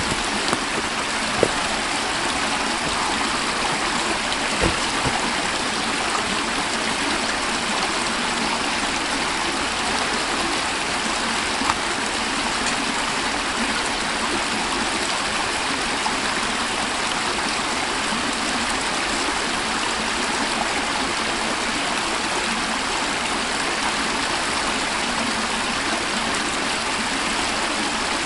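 A stream running steadily, a constant rush of water, with a few light clicks in the first dozen seconds.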